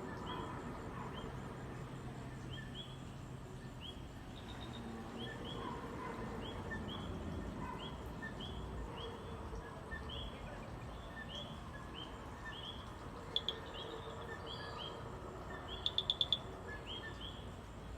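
A chorus of coquí tree frogs calling over and over in short rising chirps, above a low steady hum. Two sharp clicks about 13 seconds in, and a quick run of about five louder clicks near the end.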